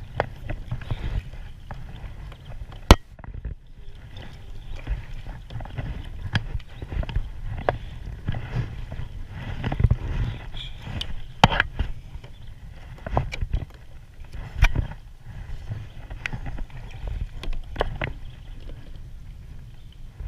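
Irregular knocks and clunks on a kayak, with one sharp knock about three seconds in, over a steady low rumble of water and wind noise.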